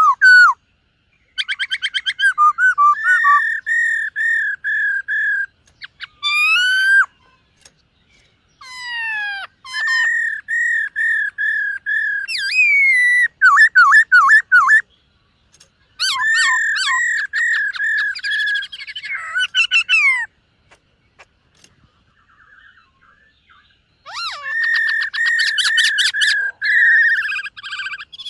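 Black-throated laughingthrush singing: phrases of repeated clear whistled notes and quick trills, with sweeping upward and downward slurs, broken by short pauses and a longer pause about two-thirds of the way through.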